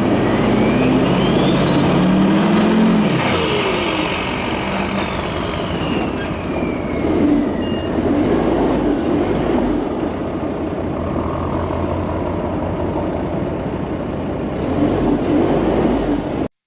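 Diesel engine revving up and back down under load, with a high whistle rising and falling along with it, then running steadily.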